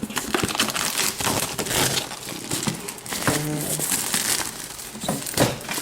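Plastic packaging and a cardboard box rustling and crinkling as a liquid CPU cooler is unpacked, with small clicks and knocks of the parts being handled.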